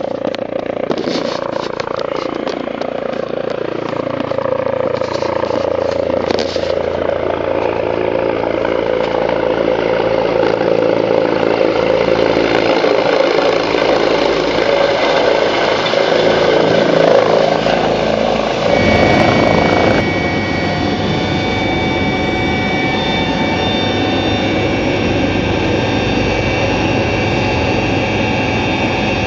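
Helicopter engine and rotor spooling up: the pitch climbs over the first several seconds, then settles into a steady run. Just before two-thirds of the way in the sound shifts, and a steady high turbine whine comes in.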